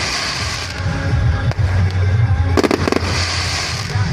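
Fireworks going off: a steady low booming rumble, a quick cluster of sharp cracks about two and a half seconds in, and a hissing crackle.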